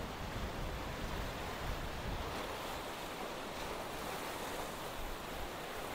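Sea surf washing steadily on the shore, with a low wind rumble on the microphone for the first couple of seconds.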